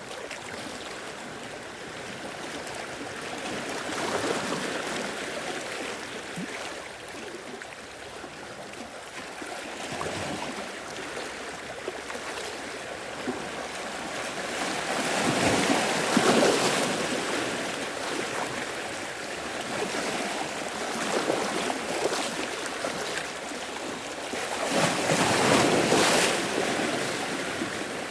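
Sea waves breaking and washing on the shore in a steady rush, with larger swells about a third of the way in, around the middle and again near the end.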